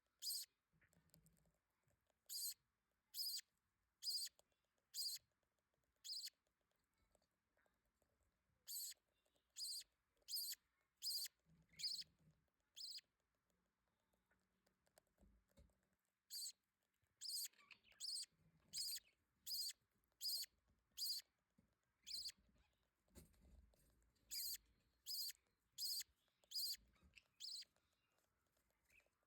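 Very young budgerigar chicks cheeping with short, high-pitched squeaks, about one or two a second in runs with pauses between: begging calls while the parent budgies feed them.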